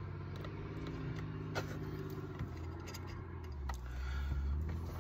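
Low engine-like hum that shifts down in pitch twice, with scattered small clicks and taps of parts and a tool being worked at a car's shifter base.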